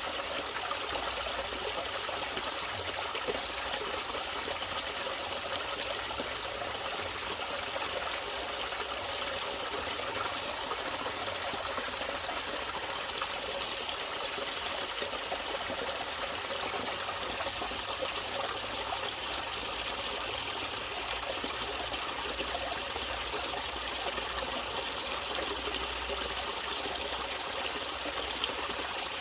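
Natural running water trickling steadily, like a small stream, with no breaks or changes.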